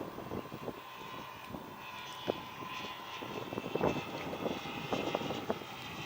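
Radio-controlled aerobatic model airplane flying, its motor and propeller drone swelling and fading as it manoeuvres, with wind buffeting the microphone in short gusts.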